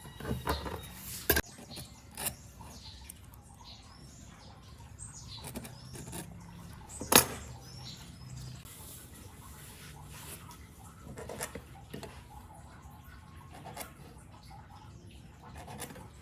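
Sporadic light knocks and taps, the loudest about seven seconds in, with faint high bird chirps in between.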